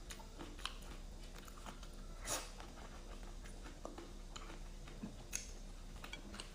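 A person chewing food close to the microphone, with scattered small wet mouth clicks and one louder bite about two seconds in.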